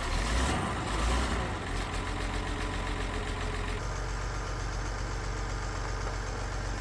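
Diesel engine of a 1976 White 2-85 tractor running at idle, a steady low rumble, with a hissing rush over the first couple of seconds.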